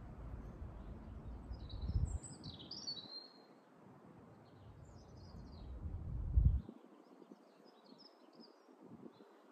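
Small songbirds chirping and twittering in short scattered bursts. Under them runs a low rumble that swells twice, loudest about six and a half seconds in, then drops away abruptly.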